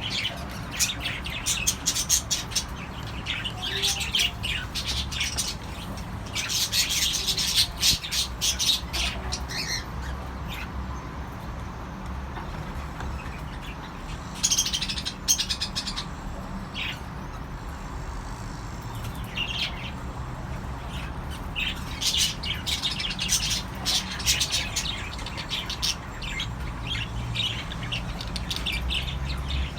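Cockatiels chirping and squawking in repeated clusters of short, high calls, with quieter gaps in between, over a steady low hum.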